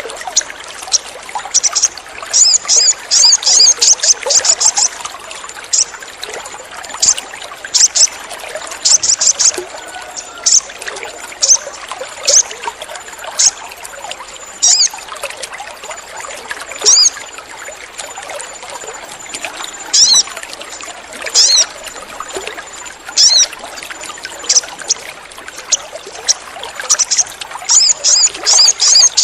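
Sogon birds calling in sharp, high chirps, some in fast rattling runs near the start and end and others single and spaced a second or two apart, over steady trickling water.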